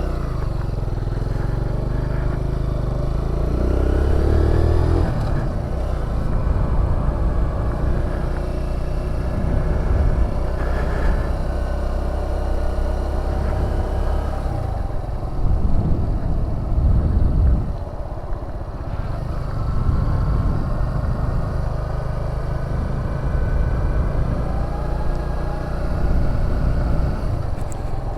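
Kawasaki Z125's small single-cylinder engine running while riding slowly, the throttle opening and closing so the engine note rises and falls, with a couple of louder spells of revving.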